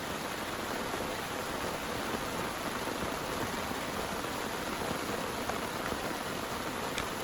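Heavy rain pouring steadily, an even hiss of rainfall with a faint single drop-like tick near the end.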